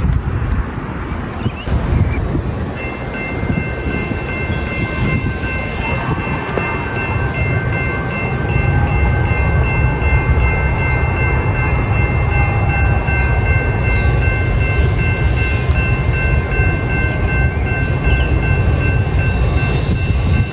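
Railroad grade-crossing warning bells ringing steadily from about three seconds in. Beneath them is a low rumble that grows louder from about eight seconds in, as a commuter train approaches the station.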